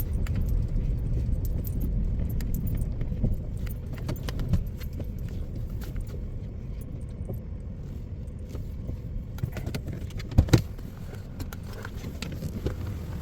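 Truck rolling slowly and idling, heard from inside the cab, with a low rumble that eases off over the first half and light jangling clicks throughout. Two sharp clicks come close together near the end.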